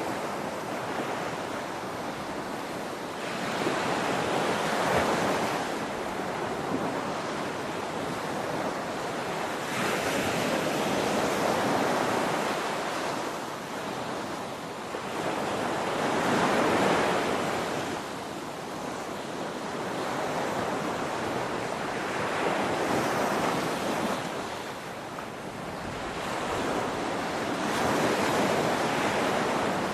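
Ocean waves crashing: a continuous wash of surf that swells and falls back about every six seconds, five surges in all.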